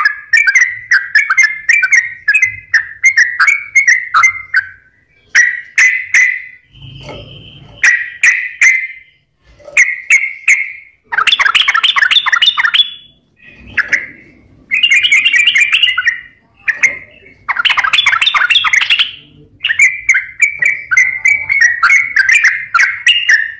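Yellow-vented bulbul (trucukan) singing vigorously: fast chattering runs of short repeated notes, broken in the middle by separate bubbling song phrases with brief pauses between them.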